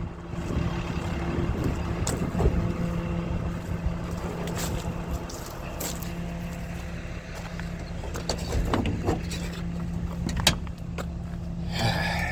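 A vehicle engine running steadily with a constant low hum, with a few short knocks and clicks.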